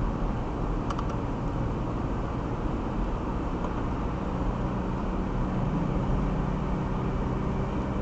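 Steady road and engine noise of a car being driven, with a low hum that grows more prominent about halfway through.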